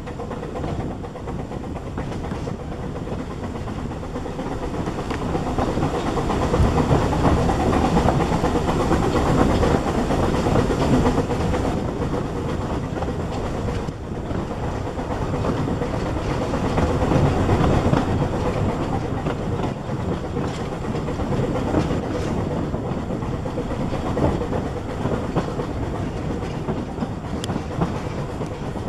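Narrow-gauge steam train running, heard from its moving carriage: the steady rumble and clickety-clack of the carriage wheels on the track. It grows louder twice, for several seconds each time.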